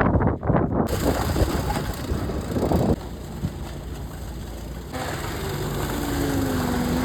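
Wind rushing over the microphone, then from about five seconds in a steady motor hum joins it, its pitch dipping slightly and levelling off.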